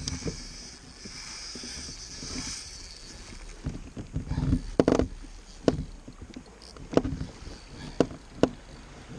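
Sharp knocks and clunks on a kayak, about six spread over several seconds, over water lapping and wind noise.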